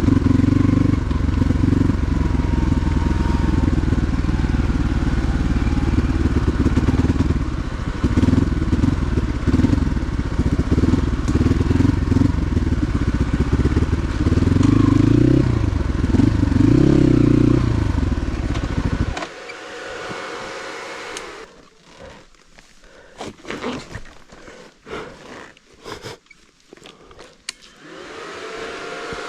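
Motorcycle engine running, its revs swelling up and down a couple of times, then cutting off abruptly about two-thirds of the way through. After that, scattered knocks and clatter at a much lower level.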